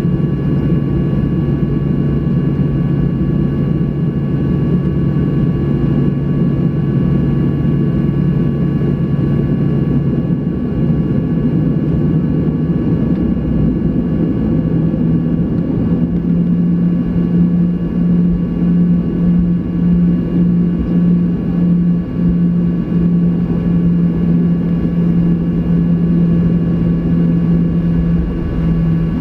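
Boeing 737-800's CFM56 jet engines heard in the cabin on the ground before takeoff: a steady drone with a strong low hum that steps up in pitch about halfway through and then pulses slightly.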